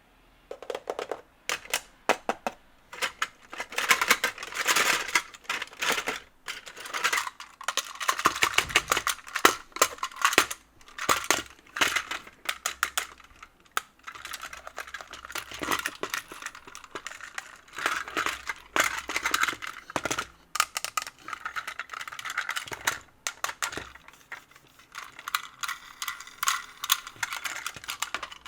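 Plastic Plarail toy train set clicking and clattering, a dense irregular run of sharp plastic clicks and rattles over a faint steady hum.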